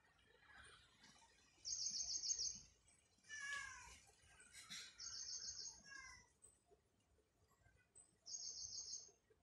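A bird's rapid high trill, each about a second long, repeating about every three seconds, three times. About three and a half seconds in comes a short call with bending pitch: a cat's meow.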